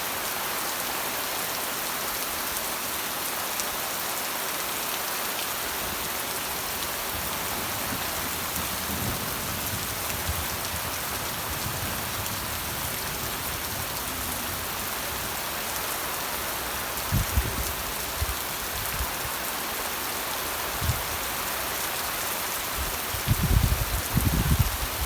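Steady rain falling, an even hiss. Short low rumbles come in about two-thirds through, and a louder run of them near the end.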